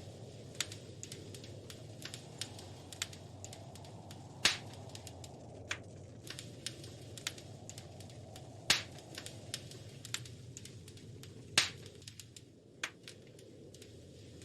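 Wood fire crackling in a fireplace: irregular sharp pops and snaps over a steady low rushing noise, with three much louder pops spread through it.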